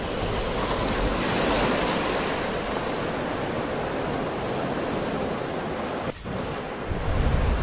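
Sea surf washing in a continuous rush that swells during the first couple of seconds. A brief dip comes about six seconds in, and wind buffets the microphone with a low rumble near the end.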